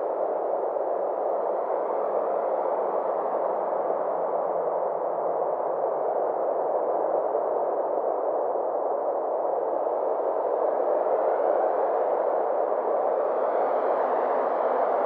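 Synthesized space ambience: a steady drone of filtered noise centred in the midrange, its upper edge sweeping slowly up and down.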